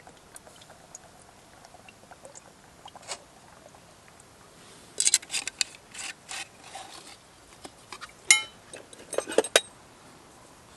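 Metal camp cookware being handled: a few quick clatters, a sharp ringing clink of metal on metal a little past the middle, then another short clatter.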